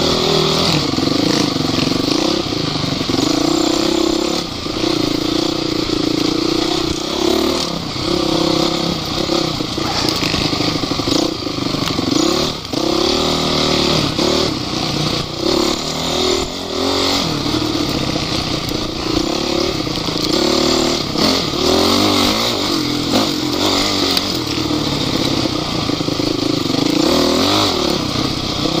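Off-road vehicle engines running hard, their pitch rising and falling again and again as they rev and shift through the course.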